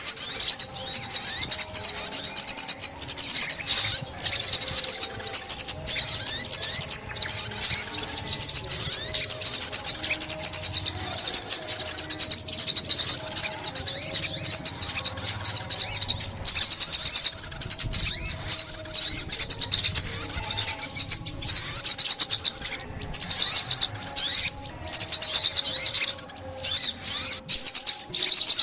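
'Ốc mít' sunbird song: rapid, high-pitched twittering chirps in long unbroken runs with only brief pauses, the call used as a lure when trapping sunbirds.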